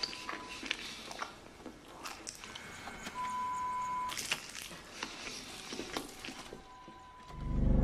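A man chewing, with many small crisp clicks of the bites. A steady electronic beep sounds for about a second a little after three seconds in, and a deep low rumble swells up near the end.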